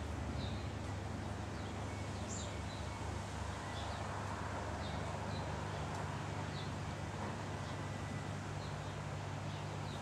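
Short, high bird chirps, roughly one a second, over a steady low hum and outdoor background noise.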